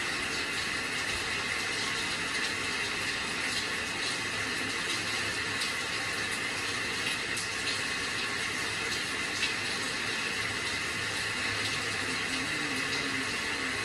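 Steady rain hiss with scattered faint ticks of individual drops.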